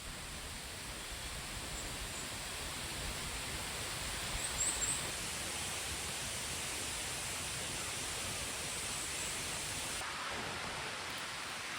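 Small stream babbling steadily, with a few faint high chirps, the clearest about four to five seconds in.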